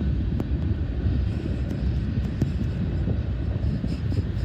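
Gusty wind buffeting the microphone as a heavy, uneven low rumble, with a faint rapid ticking coming in near the end.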